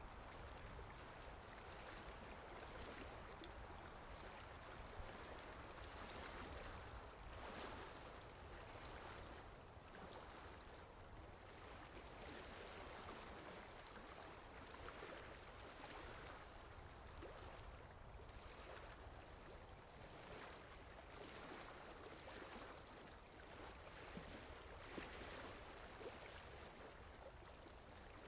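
Steady rain falling, faint: an even hiss with scattered drop ticks.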